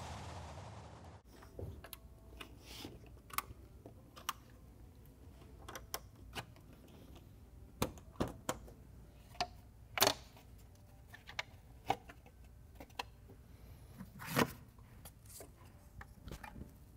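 Hard plastic engine-bay trim covers being handled and pressed into place: scattered light clicks and knocks of plastic, with the loudest knocks about ten seconds in and again near fourteen seconds. Music fades out in the first second.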